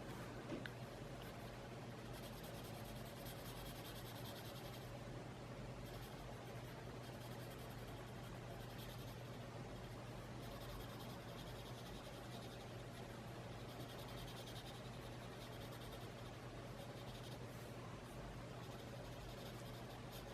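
Colored pencil shading on sketch paper: soft scratchy strokes in bouts of a second or two with short pauses, over a steady low hum.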